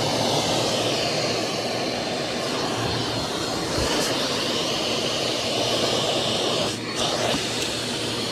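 Vacuum cleaner running steadily with a high whine from its motor, briefly dipping about seven seconds in.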